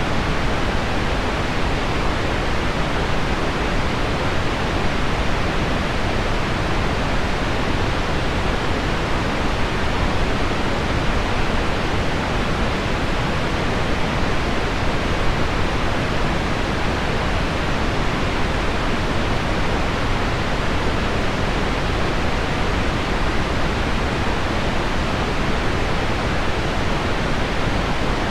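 Deep, steady pink noise blended with heavy rain hitting window glass, an even rushing hiss that does not change.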